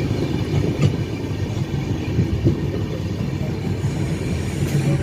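Indian Railways passenger train running, its wheels and carriage giving a steady rumble with small irregular knocks and rattles, heard from aboard at an open window.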